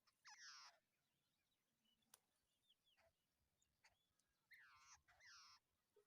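Faint harsh calls from a babbler: one near the start and two close together near the end, with a few short thin chirps between.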